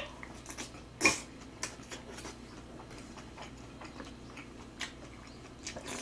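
A person chewing a mouthful of fried bibimbap, with scattered sharp clicks, the loudest about a second in.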